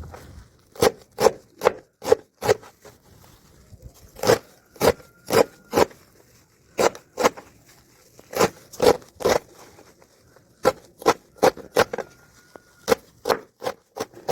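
Repeated short scraping strokes in quick runs of three or four, about two a second, with a faint thin steady tone sounding briefly twice.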